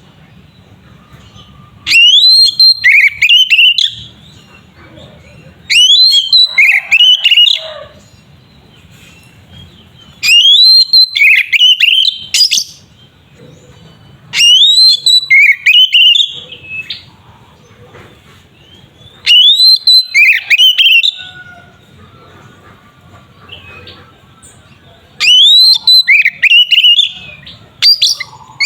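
Oriental magpie-robin (kacer) singing: six loud bursts of sweeping whistled notes, each about two seconds long, coming every four to five seconds with quiet gaps between.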